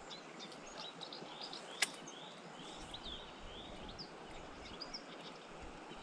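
Birds calling in many short chirps and brief downward-sliding whistles over a low, steady outdoor hiss, with one sharp click just under two seconds in.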